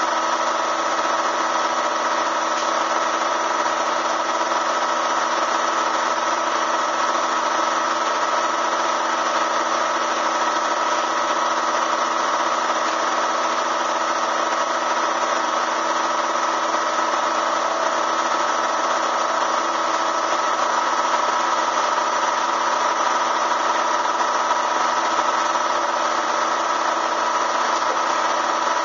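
Bee vacuum's motor running steadily with a constant high whine, sucking bees out of the wall cavity.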